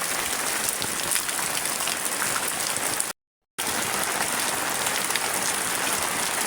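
Heavy rain falling in a steady, dense hiss with scattered drop ticks, cut off to silence for about half a second about three seconds in.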